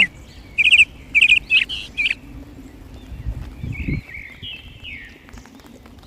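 Birds chirping: several loud runs of quick, high chirps in the first two seconds, then softer, more scattered calls. A brief low rumble comes about halfway through.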